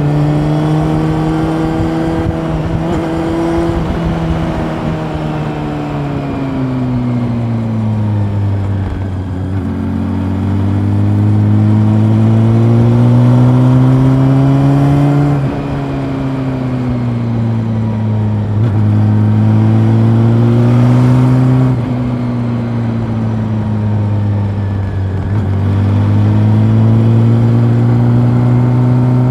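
Honda CB400 Super Four's inline-four engine pulling at moderate revs while ridden, its pitch rising as the throttle opens and falling back several times. Three times the engine note drops suddenly in loudness as the throttle is shut, around the middle and again later on.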